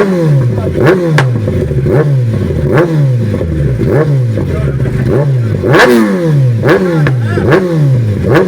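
Superbike engine revved in quick throttle blips, about one a second, each rev jumping up sharply and falling away.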